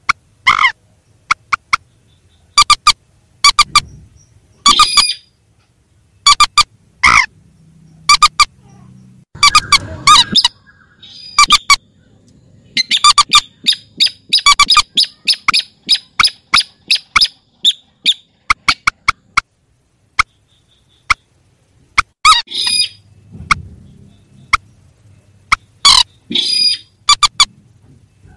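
Recorded calls of rails (the birds called mandar and sintar in Indonesia), played as a bird lure: a long, irregular series of short, sharp call notes with a few longer, harsher calls among them.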